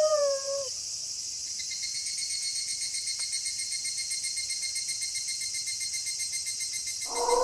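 A wolf howl ends with a falling pitch, leaving crickets chirping in a steady, fast trill through a night chorus of insects. Near the end a new wolf howl begins.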